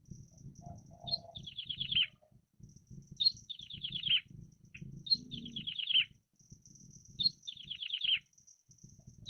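Prinia (ciblek) singing a repeated phrase about every two seconds: a sharp high note followed by a quick run of about six falling notes. A faint high trill runs between phrases over a low background rumble.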